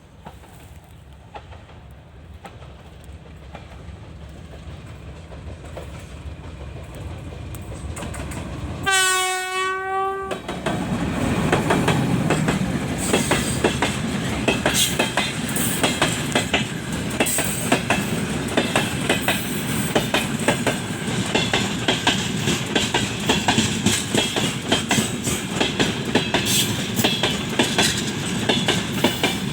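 TE33A diesel locomotive approaching with a growing rumble. About nine seconds in it sounds its horn once, a single tone lasting about a second and a half. The train then passes close by with loud, rapid wheel clickety-clack over the rail joints.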